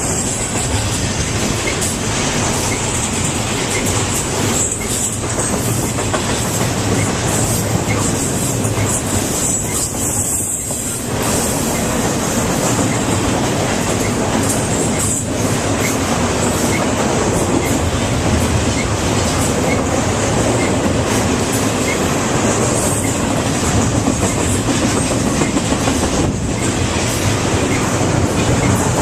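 A train rolling past on the rails, a loud, steady running noise that holds throughout.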